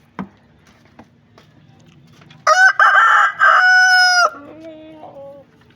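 A rooster crowing once, loudly, for nearly two seconds starting about two and a half seconds in, its last note held steady and then cut off. Shorter, lower calls from caged chickens follow it.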